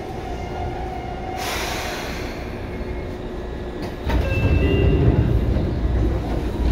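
Seibu 2000 series electric train running, heard from inside the car: a steady rumble of wheels and motors. A short burst of hiss comes about a second and a half in, and the rumble grows louder about four seconds in.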